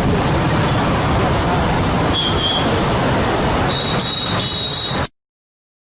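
Loud, steady noise like road traffic, with two brief high tones, the second a little longer, before it cuts off abruptly about five seconds in.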